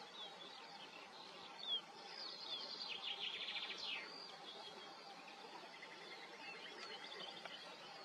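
Small birds chirping and twittering faintly, with a short trill about three seconds in, over a steady low background hiss.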